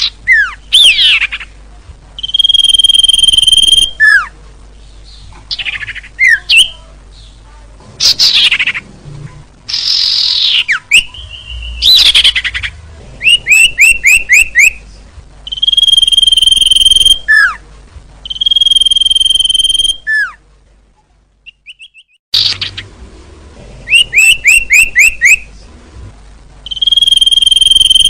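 Songbird lure-call recording: loud whistled calls that repeat in a looped pattern of a steady held whistle about a second long, sharp downslurred notes and quick runs of five or six rising chirps. The calls break off briefly about 21 seconds in, then the same sequence starts again.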